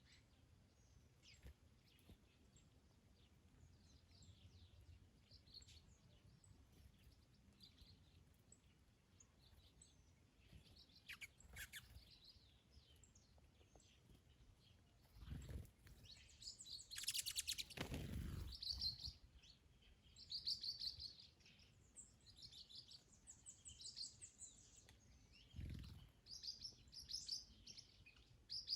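Small songbirds chirping and singing, sparse and faint at first, then busier and louder about halfway through. Three short gusts of wind rumble on the microphone.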